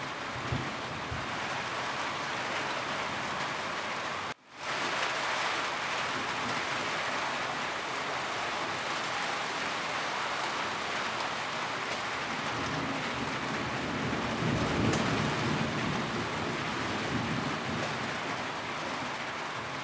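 Heavy rain falling on a roof, a steady dense hiss. It cuts out for a moment about four seconds in and fades back up, and a low rumble swells around fifteen seconds in.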